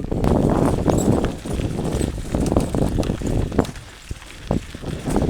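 Mountain bike clattering and rattling over a rough trail, many quick knocks over a low rumble; it goes quieter about three and a half seconds in, leaving a few scattered knocks.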